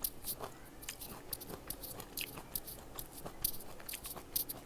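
A person chewing juicy fresh fruit close to the microphone: irregular wet smacking and crunching clicks, several a second.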